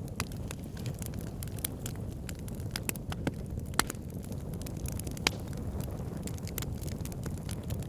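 Wood fire burning in a fireplace: a steady low rumble of flames with irregular crackles and snaps, a few sharper pops standing out.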